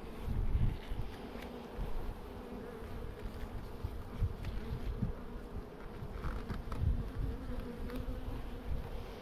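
A steady hum of many honey bees buzzing around an opened hive during a swarm transfer, with repeated low thumps and a few short knocks.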